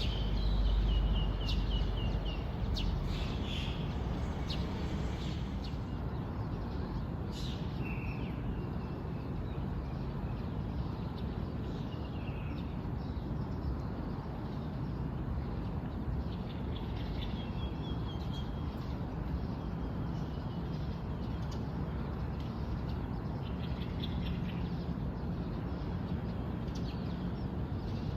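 Birds chirping and trilling over a steady outdoor background hiss, the calls busiest in the first several seconds and then sparse. A low rumble sounds in the first couple of seconds.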